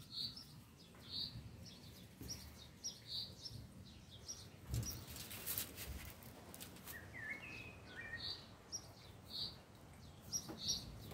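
Small birds chirping: a short high chirp about once a second, and a quick run of lower, falling chirps around seven seconds in. About halfway through there is a brief rustle of crinkled aluminium foil with soft knocks as the concrete figure is handled.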